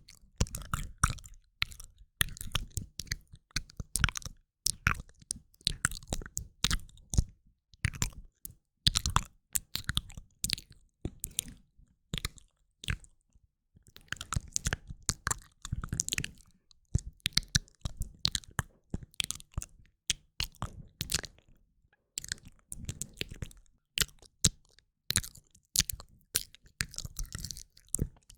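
Close-miked wet mouth sounds: quick clusters of clicks, smacks and pops, broken by short pauses of a second or two.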